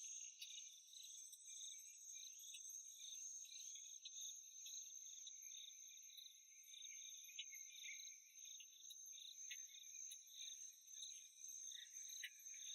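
Faint insect chorus of crickets: a steady high-pitched trill with regular pulsing chirps over it.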